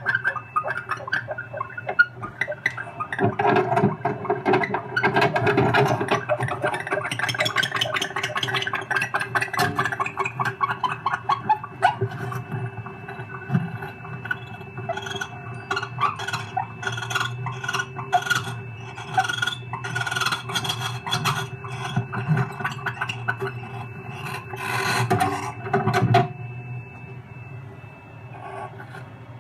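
Barn owls in a wooden nest box: rapid runs of rasping, scratchy sounds and clicks, busiest in the first third and again in a short burst near the end, over a faint steady hum.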